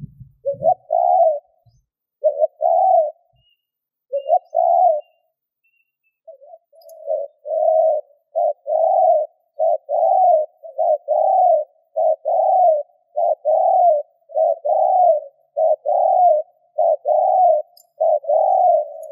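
Spotted dove cooing: a few separate coo notes at first, then from about six seconds a fast, even run of short arched coos, about two a second. This is the 'gù' cooing that dove keepers use to stir up wild males.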